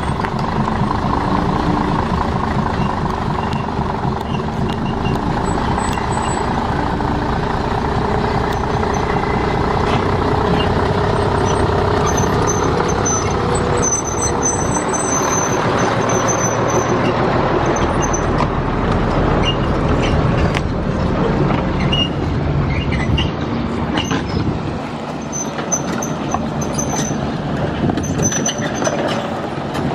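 Heavy construction vehicle's engine running steadily, with a slight drop in loudness in the last few seconds.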